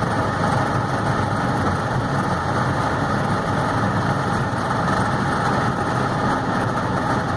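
Volkswagen Golf Mk3's VR6 six-cylinder engine running steadily, mixed with wind and tyre noise, heard from a car driving at speed. No revving up or down and no gear change stands out.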